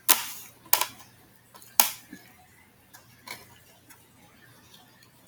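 Close-miked eating noises from a plate of pulled pork, baked beans and coleslaw: three loud, sharp wet noises in the first two seconds and a softer one a little after three seconds.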